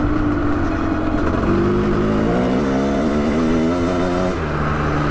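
Custom-built 700cc two-stroke motocross bike engine running hard under throttle. Its pitch steps up twice, wavers with the throttle, then drops lower near the end.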